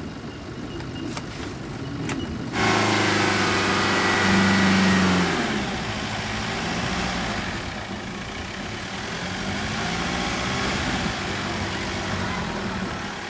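A bogged four-wheel drive's engine running, revving up hard a few seconds in and then settling back to a steady run. Before that there is a short, quieter stretch with a few faint knocks.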